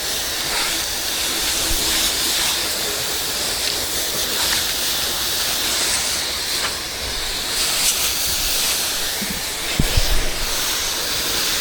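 Pressure-washer spray hissing steadily as water is jetted onto a dirty house wall. There are a few brief low bumps about ten seconds in.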